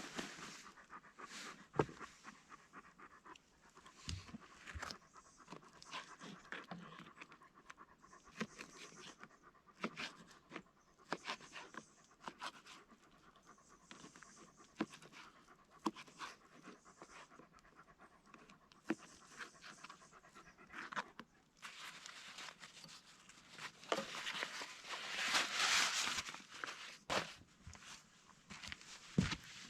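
A dog panting in soft repeated breaths, with scattered small clicks and crackles. A louder rush of noise comes about three-quarters of the way through.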